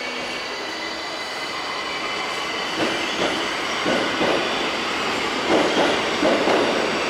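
Tokyo Metro 1000 series subway train running through the station, its wheels knocking over rail joints in pairs of clacks that grow louder from about three seconds in, over a steady hum with a faint high wheel squeal.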